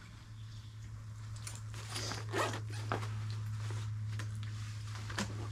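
A zipper pulled with a rasping sound about two seconds in, with rustling and a few sharp clicks, over a steady low hum.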